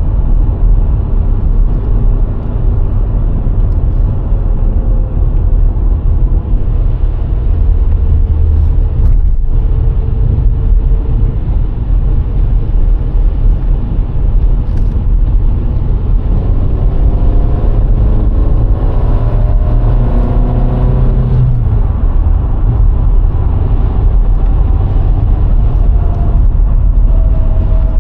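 VW Golf IV's 1.6 four-cylinder petrol engine running with a steady low rumble of tyre and road noise while driving. The engine note shifts and rises partway through.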